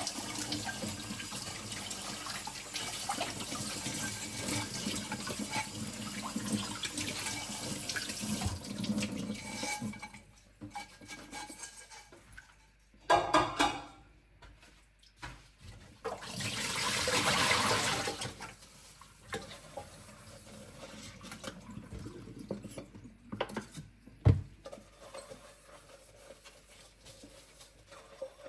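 Kitchen tap running into a sink while dishes are washed, shut off about ten seconds in. After that come scattered clinks of dishware, a short rush of water, and one sharp knock near the end.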